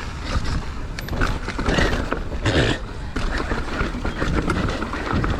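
Mountain bike rattling and clattering as it is ridden down a rough trail, with many short knocks, and wind rushing over the microphone.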